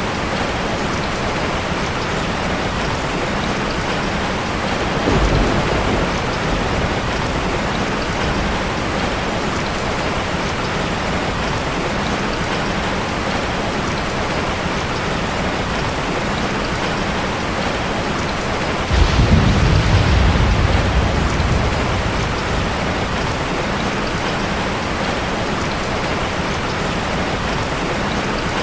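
Heavy rain falling steadily, with distant thunder rumbling twice: briefly about five seconds in, and more strongly about nineteen seconds in, fading over a few seconds.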